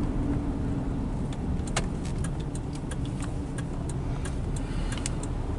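Car cabin with steady engine and road rumble while driving. From about a second and a half in, sharp ticks repeat evenly, about two to three a second: the turn signal clicking as the car approaches a turn.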